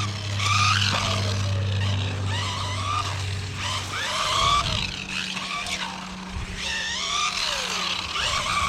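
Rlaarlo AMX12 RC buggy's electric motor whining up and down over and over as the throttle is worked, with tyre noise from the buggy sliding on the wet surface. A steady low hum runs underneath and stops about four seconds in.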